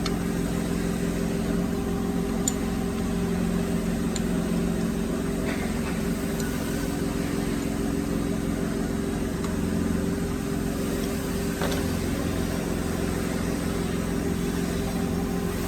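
Steady hum of running workshop machinery, even throughout, with a few faint clicks.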